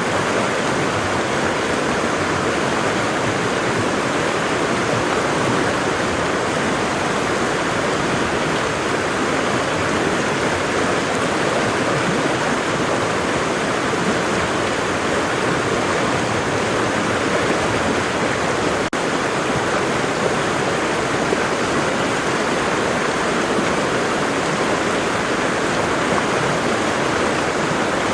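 Waterfall: water pouring and splashing in a steady, even rush of noise. There is one momentary dropout about two-thirds of the way through.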